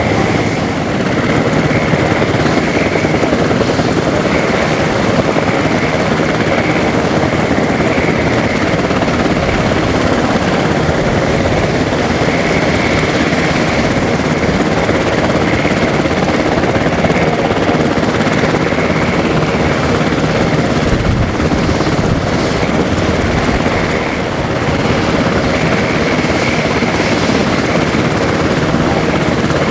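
Military turbine helicopter running steadily, its rotor and engine noise constant with a steady high turbine whine.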